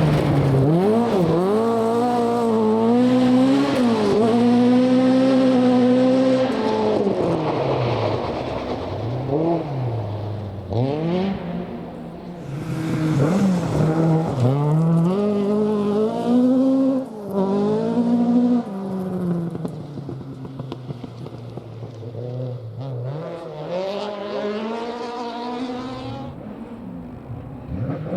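Rally car engine revving hard, its pitch repeatedly dropping and climbing as the car brakes, shifts gear and accelerates through a tight corner. It is loudest over the first several seconds and quieter in the last third.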